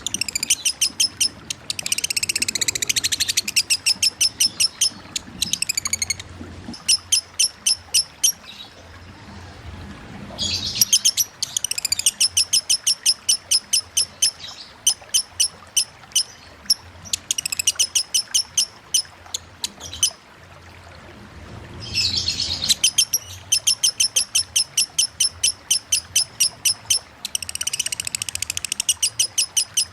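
Lovebird singing in the rapid 'konslet' chatter, long runs of many sharp high chirps a second broken by short pauses, over a faint steady sound of running water.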